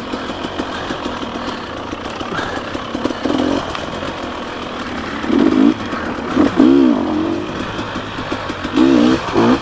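Dirt bike engine under way on a trail, the throttle blipped on and off so that the engine note rises and falls in short bursts about five times, over a steady rushing noise.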